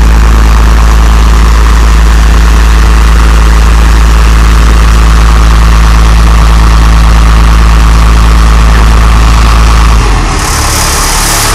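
1995 GMC Top Kick dump truck engine idling steadily, loud and close. About ten seconds in the deep rumble drops and a high hiss comes in.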